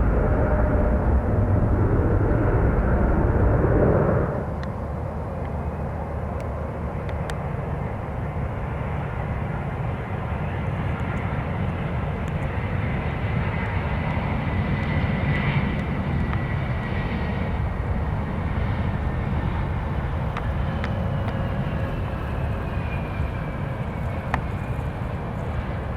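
Jet airliner engines running: a loud, full engine noise that drops off abruptly about four seconds in. A steadier engine drone follows, with a high turbine whine that slowly falls in pitch near the end.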